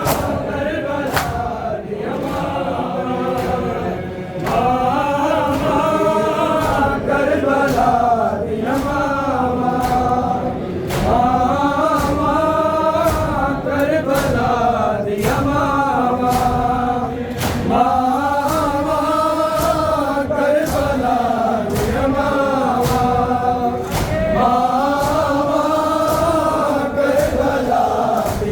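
A group of male voices chanting a noha, a Shia Muharram lament, in long melodic phrases. Sharp regular beats about once a second keep time under the chanting.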